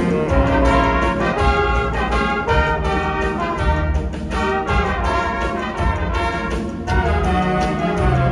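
Winds ensemble playing brass-led music, with many instruments sounding together over a pulsing low end.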